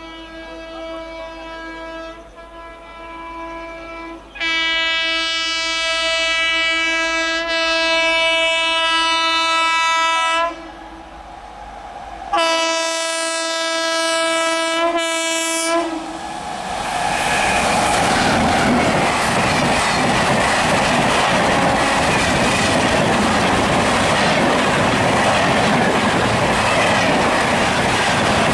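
Indian Railways express train locomotive horn, sounding faintly at first, then a long loud blast, a second shorter blast and a brief toot as the train approaches. After that the train passes at speed, with a loud, steady rush of rumbling and wheels clattering over the rail joints.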